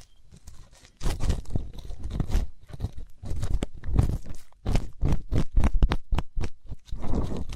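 Ear-cleaning ASMR sounds: an ear pick scraping and crackling close to the microphone in quick, irregular strokes, faint for about the first second and then dense and loud.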